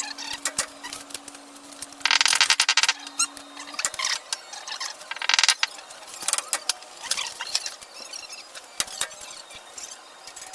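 Two short bursts of a rapid rattling power tool, the first about two seconds in and lasting about a second, the second shorter, a few seconds later. Scattered clinks and squeaks of tools on metal come in between, with a steady low hum that stops about four seconds in.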